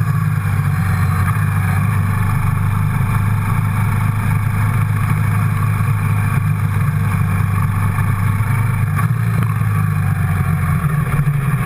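Quad bike engine running steadily under way, with the noise of travel over a gravel lane; the engine note eases off near the end.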